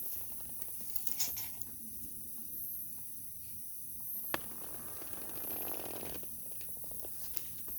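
Wood campfire crackling, with a sharp pop about a second in and a louder one a little past four seconds, and a soft rushing noise that swells and fades twice between them.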